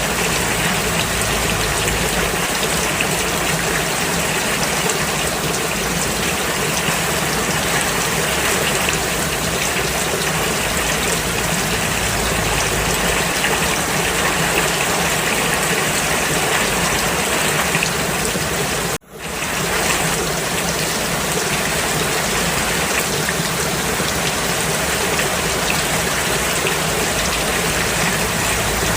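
Steady, dense rainfall hissing without a break, except for one sudden brief cut-out about two-thirds of the way through, after which the rain swells straight back in.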